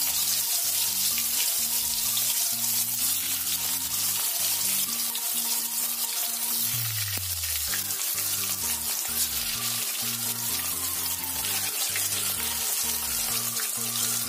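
Masala-stuffed bitter gourds (karela) frying in hot mustard oil in a wok, a loud, steady sizzle of bubbling oil. Soft background music plays underneath.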